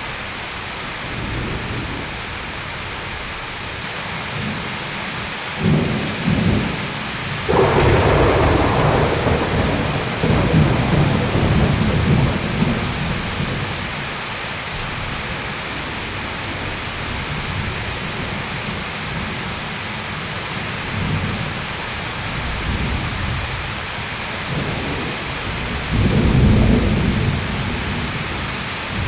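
Thunderstorm: steady heavy rain with rolling thunder, a sharp crack about a quarter of the way in that rumbles on for several seconds, and another rumble near the end.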